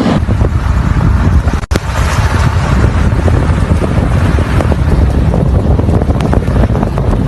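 Loud wind noise buffeting the microphone in a snowstorm, a dense rumble heaviest in the low end, broken by a short dip about a second and a half in.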